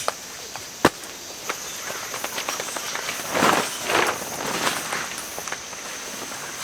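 Two crunching footsteps on crushed-stone gravel about three and a half seconds in, after a single sharp click about a second in, over a steady high-pitched whine.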